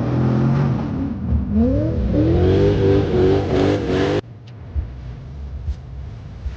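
Car engine revving, its pitch climbing sharply and then holding high. It cuts off abruptly about four seconds in, leaving a lower, quieter rumble with a few faint clicks.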